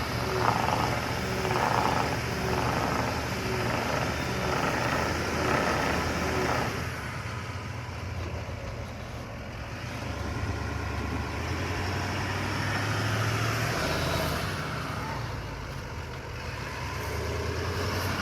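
Heavy-duty pickup truck's engine running as it tries to get unstuck from mud. A rhythmic pulsing beat about twice a second sounds over the engine for the first several seconds, then stops, leaving the engine's steady low hum.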